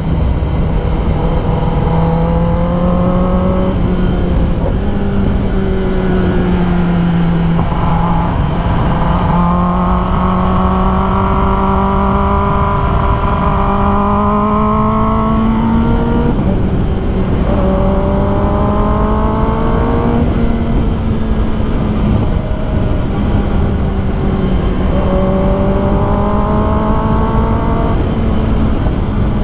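Kawasaki ZX10R's 998 cc inline-four running under way, its pitch climbing steadily and dropping back several times, over constant wind rush on the microphone.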